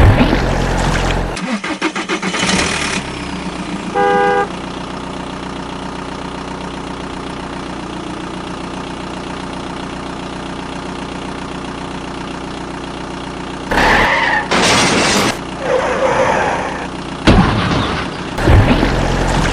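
Truck engine running steadily, with a short horn honk about four seconds in. Louder bursts of noise break in near the end.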